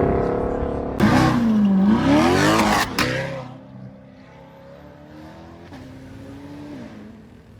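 A car's engine accelerating hard, its note dipping and then climbing, with a sharp crack where the burst starts and another where it ends. The car then drives off and its engine fades into the distance.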